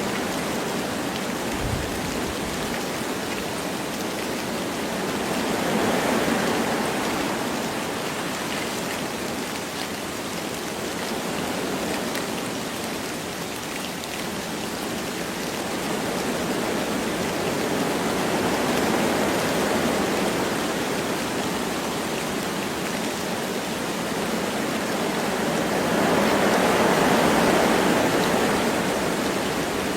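Wind blowing through forest trees with light rain falling, a steady rushing hiss that swells in gusts, the strongest near the end.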